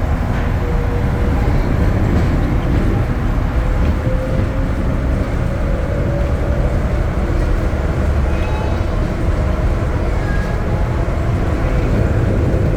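ATL SkyTrain people-mover car running between stations, heard from inside the cabin: a steady rumble, with a faint whine that slowly rises in pitch partway through.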